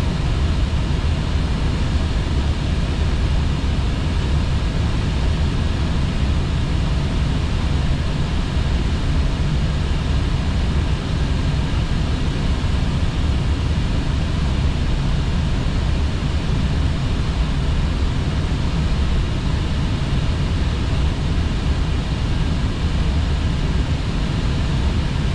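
Steady cockpit noise of an Airbus A320 in flight on approach: an even, deep rushing of airflow and engine sound with no breaks.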